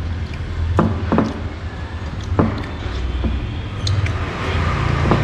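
Low steady rumble of road traffic with several sharp clicks and knocks, two of them close together near the end.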